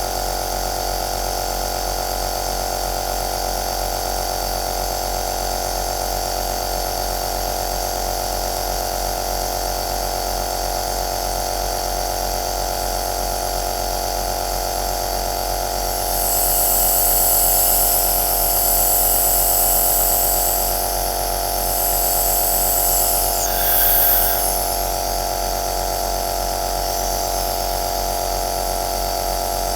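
Compressor nebulizer running with a steady motor hum and an airy hiss. From about sixteen seconds in, a louder high hiss comes and goes three times, ending with a short falling sweep just before twenty-four seconds.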